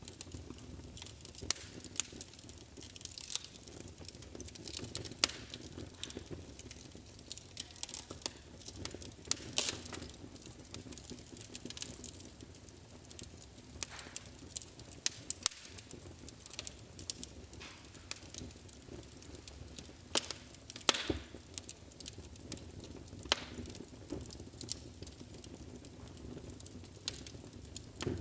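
Wood fire burning in a fireplace: irregular sharp crackles and pops over a steady low rumble of the flames, with a few louder pops now and then.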